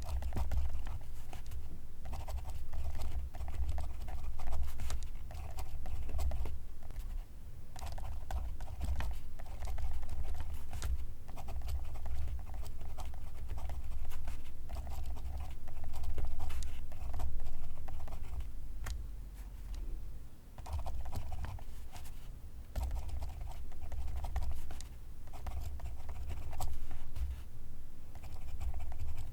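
Pencil writing on paper: scratchy strokes in short irregular runs with brief pauses between them.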